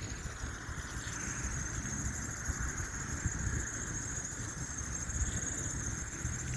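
Steady distant vehicle rumble with a faint, constant high-pitched whine above it.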